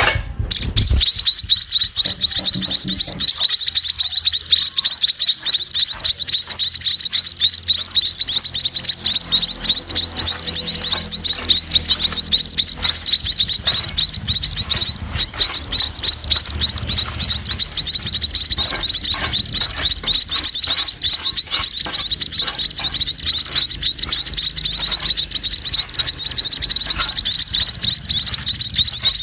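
Sparrow nestlings giving rapid, high-pitched begging chirps nonstop.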